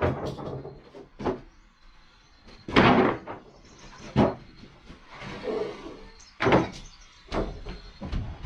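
Irregular wooden knocks and thuds, about eight in all, with the loudest and longest about three seconds in.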